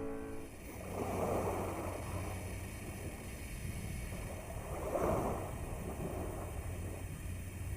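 Sea waves washing ashore, swelling about a second in and again about five seconds in, with a steady low rumble of wind on the microphone.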